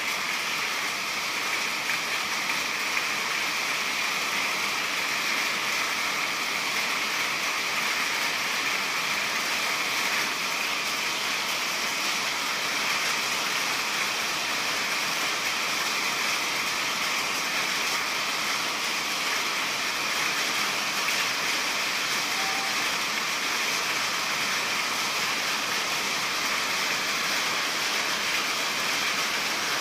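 Steady monsoon rain falling, an even hiss with no let-up.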